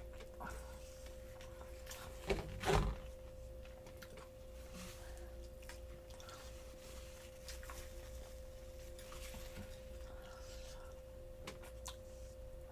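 Soft close-miked chewing of fried chicken dipped in mashed potatoes, with a louder bite about two and a half seconds in, over a steady faint hum.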